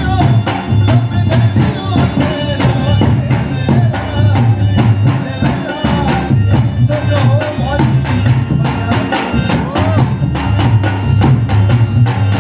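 Rajasthani folk music with a quick, steady clacking percussion rhythm over a deep drum beat and a wavering melody line.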